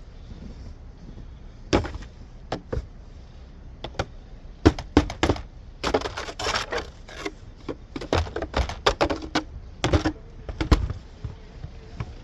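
Snow shovel scraping and knocking against the ground in irregular strokes, with a longer scrape about halfway through.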